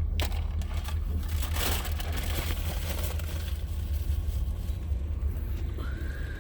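Florida East Coast Railway train passing: a steady low rumble with scattered crackles and clatter.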